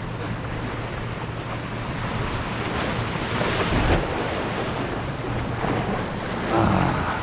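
Ocean surf washing in, with a wave swelling to its loudest about four seconds in, and wind rumbling on the microphone.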